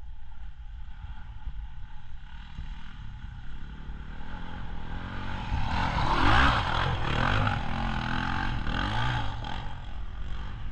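Dirt bike engine approaching and getting louder as the rider charges the steep hill for a jump, loudest about six seconds in, then the revs rising and falling over the next few seconds.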